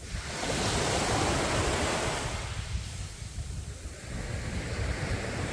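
Sea waves breaking and washing up the beach: one surge swells a little after the start and fades, and another builds near the end. Wind rumbles on the microphone underneath.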